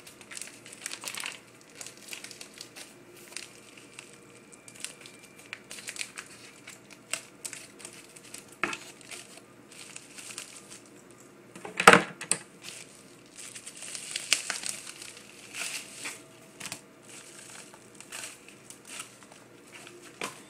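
Packaging being opened and handled by hand: irregular crinkling and rustling, with one loud crunch a little past the middle.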